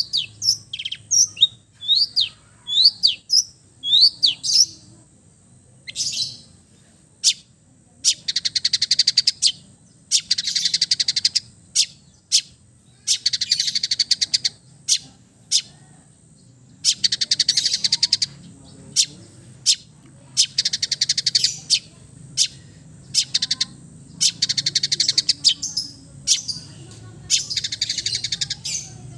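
Long-tailed shrike (cendet) singing. It opens with a run of short rising chirps, then about eight seconds in switches to harsh, rapid chattering trills about a second long, repeated again and again with single sharp notes between them.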